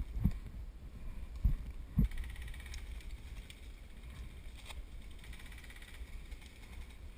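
A few dull thumps of movement or handling close to the microphone, and twice a faint stretch of rapid, evenly spaced clicking from airsoft guns firing in bursts some way off.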